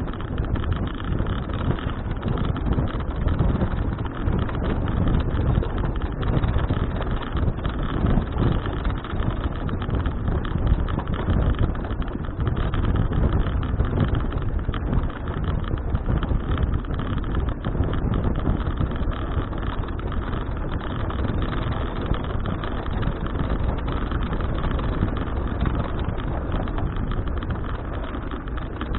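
Wind rumbling over a bike-mounted action camera's microphone, with road and tyre noise from a bicycle being ridden; it is steady with small gusts and eases slightly near the end.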